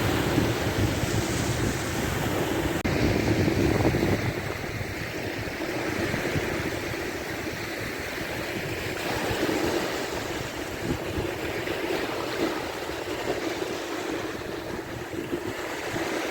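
Sea surf washing on a beach, with wind buffeting the microphone in gusts.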